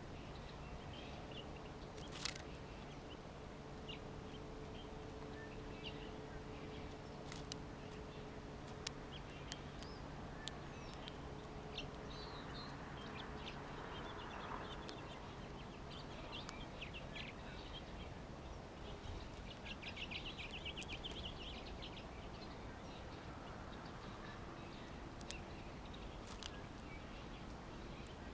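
Small songbirds chirping faintly and intermittently over a steady outdoor background hiss, with a quick trill about twenty seconds in and scattered sharp clicks.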